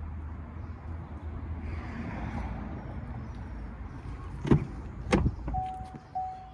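Two sharp clacks of a truck door or latch about four and a half and five seconds in, then an electronic chime that starts dinging evenly, a little under twice a second: the 2018 Chevy 2500's door-open warning chime.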